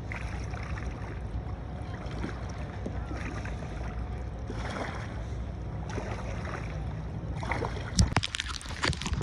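Kayak paddle strokes swishing through the water at an even pace, about one every second and a quarter, over a steady low wind rumble on the microphone. Near the end come several sharp knocks and clatters.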